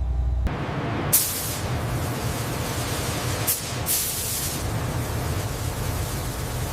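A low hum cuts off abruptly about half a second in, giving way to a steady compressed-air hiss. Sharper spraying bursts of hiss come about a second in and again around three and a half to four and a half seconds in.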